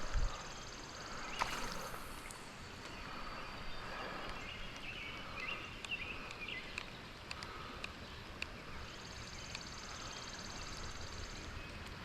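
Outdoor creekside ambience in the rain: a steady hiss with scattered small ticks, a high trill at the start and again for a couple of seconds near the end, and a few lower chirps in the middle. A dull thump just at the start.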